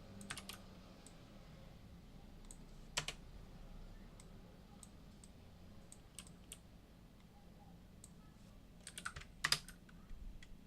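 Scattered clicks and key taps at a computer keyboard, with a cluster of several quick clicks near the end, over a faint steady hum.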